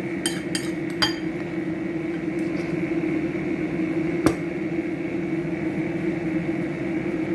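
A steady appliance-like hum, with a click about a second in and one sharp knock of kitchenware a little past four seconds in.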